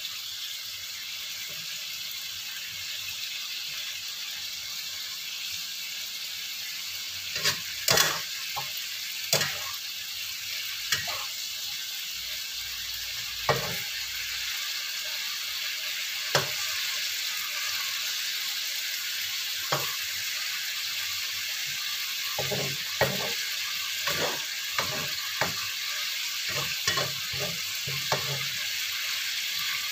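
Chicken feet in black pepper sauce sizzling steadily in a wok, stirred with a spatula that scrapes and knocks against the pan now and then, more often near the end.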